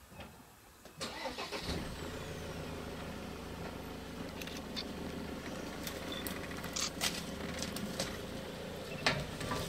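Vehicle engine starting about a second in, then idling steadily, with a few sharp clicks and a loud click near the end.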